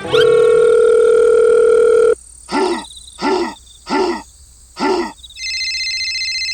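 Telephone call sound effect: a steady dial tone for about two seconds, then four short beeps about two-thirds of a second apart, then a high steady ringing tone from near the end.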